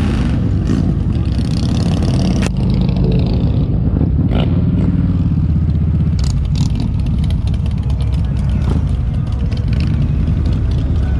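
Motorcycle engine running steadily under way, a low, even engine note, with a sharp click about two and a half seconds in.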